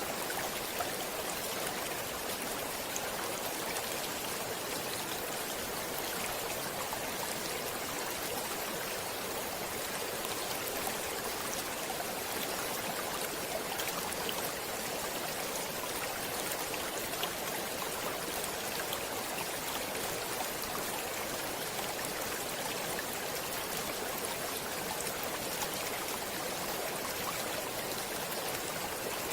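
Stream water flowing steadily over rocks, a constant rushing with fine splashing and trickling.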